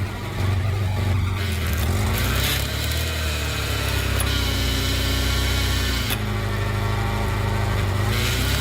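Engine running steadily to drive the hydraulic pump of a log splitter. It is a low hum whose pitch shifts slightly about two and a half seconds in and again about six seconds in.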